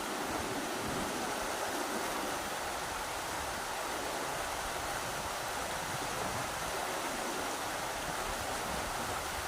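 Rushing river water, a steady even roar of flowing current.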